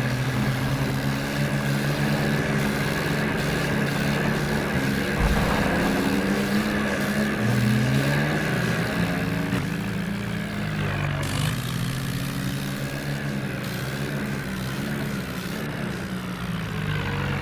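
Tractor engine running under load, its engine speed rising and falling several times.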